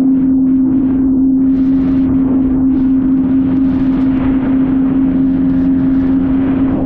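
Jet ski engine running at a steady speed: an even, unchanging drone with a rushing hiss over it.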